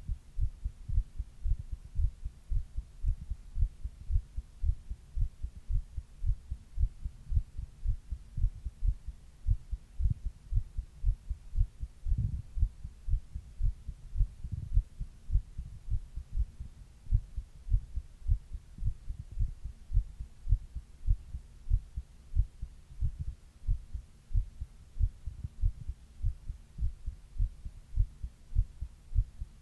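A person's heartbeat heard close up: a steady, regular run of low thumps, with one sharper knock about halfway through.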